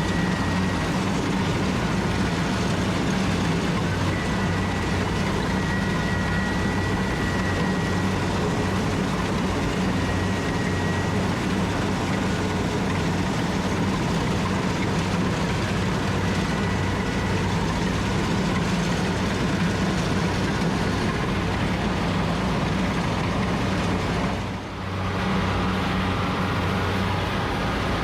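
Rice combine harvester running steadily under load, a constant engine drone with a faint high whine above it. The sound dips briefly about three seconds before the end.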